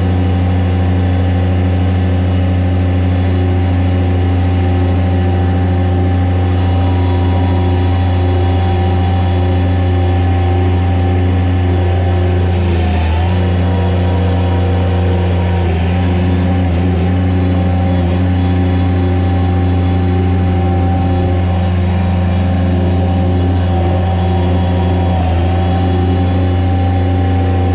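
Bobcat MT55 mini track loader's diesel engine running steadily, with a brief dip in pitch about 13 seconds in.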